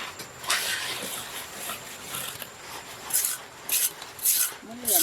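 Rhythmic rasping strokes, about two a second, starting about three seconds in after a stretch of steady hiss, like a hand tool working a hard surface.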